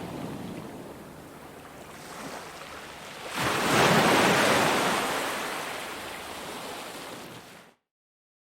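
Sea waves washing onto a beach. One wave breaks loudly a little over three seconds in and slowly fades, then the sound cuts off abruptly to silence near the end.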